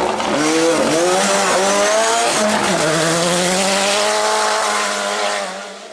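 Ford Sierra Cosworth's turbocharged four-cylinder rally engine accelerating hard, its pitch climbing and dropping back at gear changes, then holding a steady high note before fading just before the end.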